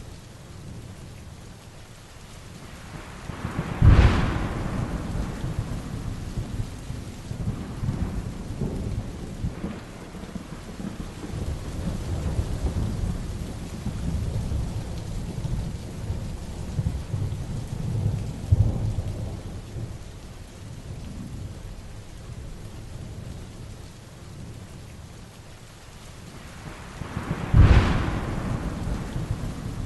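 Heavy rain falling steadily through a thunderstorm, with a low rumble of thunder throughout and two sharp, loud thunderclaps, one about four seconds in and one near the end, each rolling on for several seconds.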